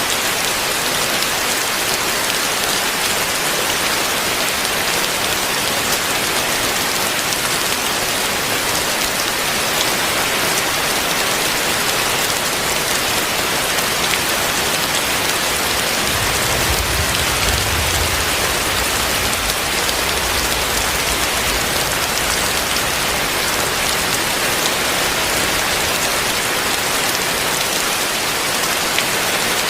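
Heavy rain pouring steadily onto surfaces. A low rumble swells under it a little past the middle and fades out a few seconds later.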